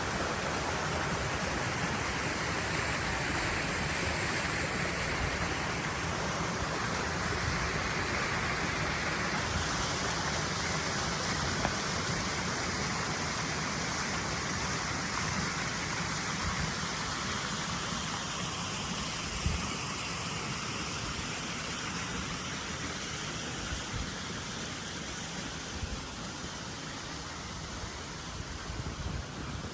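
Steady rush of running water, easing a little over the last third, with a few soft knocks in the second half.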